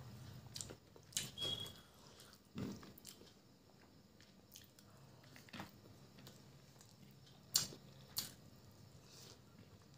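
Close-up mouth sounds of a person eating chicken biryani by hand: soft wet chewing with scattered sharp lip smacks and clicks, the loudest about three-quarters of the way through.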